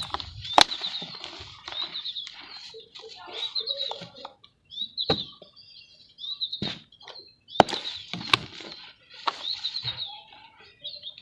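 Dry lumps of red dirt being crushed and crumbled by hand: gritty crackling in uneven bursts with several sharp snaps as pieces break.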